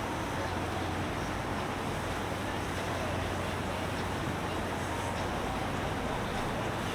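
A boat's engine running with a steady low hum, over the wash of water and wind on the microphone.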